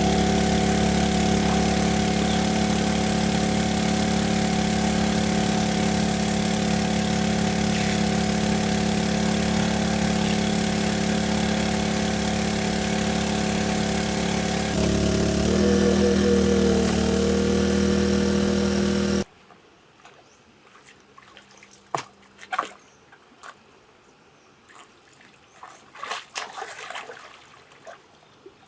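A small engine runs steadily and shifts up in pitch about halfway through. It then cuts off suddenly, leaving faint scattered clicks and knocks.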